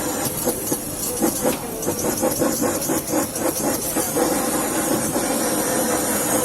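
Food sizzling in a hot pan on a hissing stove burner, with a spatula scraping and knocking against the pan in quick strokes, about three or four a second, through the first few seconds.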